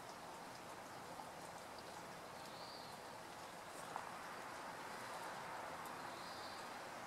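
Quiet outdoor ambience: a steady faint hiss with scattered light ticks and one sharper click about four seconds in, and two brief faint bird chirps, one a little before three seconds in and one about six seconds in.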